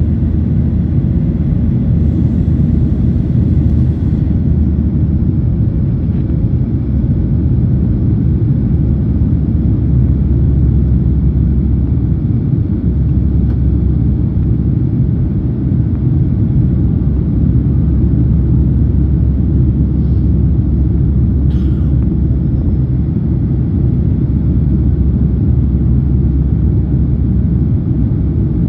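Steady low rumble of a Boeing 737-800's CFM56 engines and airflow, heard inside the passenger cabin.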